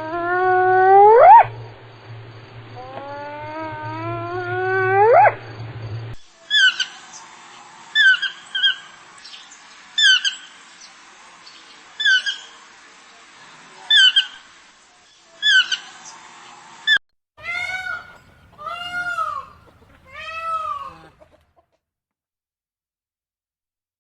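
Animal calls in three different kinds, one after another: two long calls that rise steeply in pitch, then a short chirping call repeated about every two seconds, then three short calls that rise and fall, after which the sound stops.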